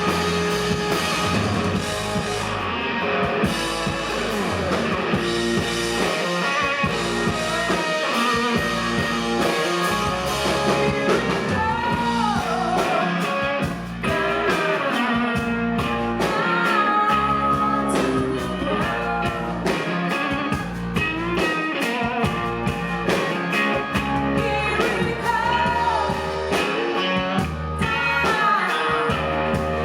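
Live blues-rock band playing: electric guitar over bass and drums, with a singer coming in partway through.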